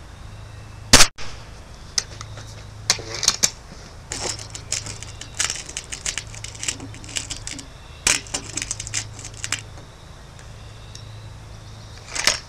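A Gamo Whisper break-barrel spring-piston air rifle fires once about a second in, a single sharp crack. A run of small metallic clicks and rattles follows as the rifle is handled, cocked and loaded, with another sharp click near the end.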